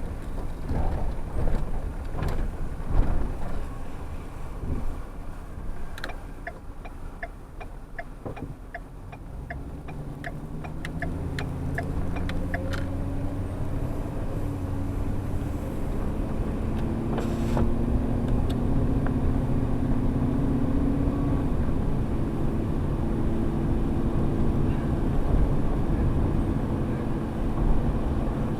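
An airport shuttle's engine and road noise heard from inside the vehicle. There are knocks early on, then a regular ticking about two to three times a second for several seconds. From about ten seconds in, the engine pulls away, its tone climbing and then stepping down as it shifts up, twice.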